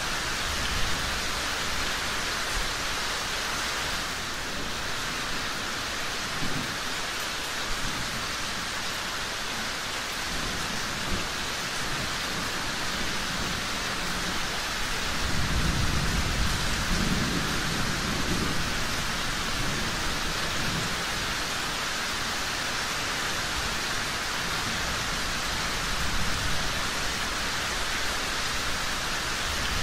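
Steady heavy rain falling, with a low rumble of distant thunder swelling about halfway through.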